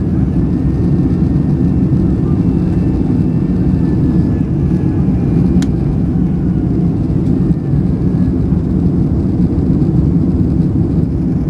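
Steady engine and airflow noise heard from inside the cabin of a Boeing 767-300 at high power, with a faint click about halfway through.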